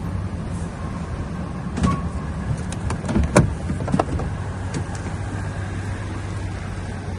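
Steady low hum of an idling vehicle engine, with a few sharp clicks and knocks around the middle.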